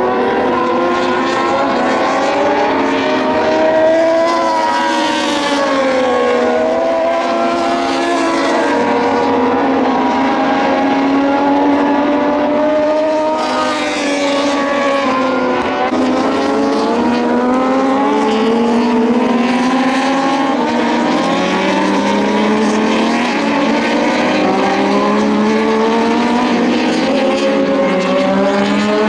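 Several Moto2 racing motorcycles with Triumph 765 three-cylinder engines, revving up and down through the gears at the same time, their pitches overlapping and sliding. Louder, fuller passes come about four to six seconds in and again near fourteen seconds.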